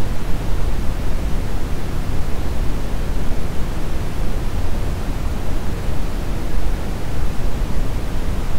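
Brown noise: a steady, even rumbling hiss, strongest in the deep lows and fading toward the highs, with no change throughout.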